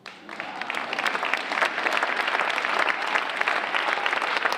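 Audience applauding, the clapping starting suddenly and swelling over about the first second, then holding steady.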